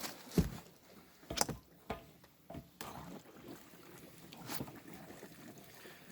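A few scattered light clicks and knocks from handling plastic and metal parts, spaced irregularly over faint background hiss.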